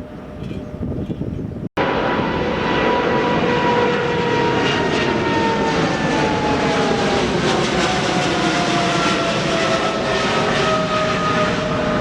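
Jet airliner engines passing close by, loud, with several whining tones that slowly fall in pitch as the aircraft goes past. The sound cuts in abruptly after a brief dropout a little under two seconds in.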